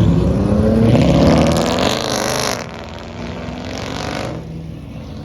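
Car engine revving hard, its pitch climbing for about two seconds before it cuts back sharply, then dropping to a lower, steadier sound as the car moves off.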